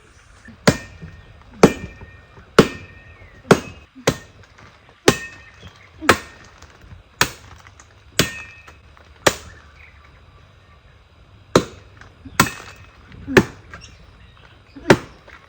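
A steel blade chopping into wood with about fourteen sharp strikes, roughly one a second, and a pause of about two seconds past the middle. Some blows leave a brief metallic ring.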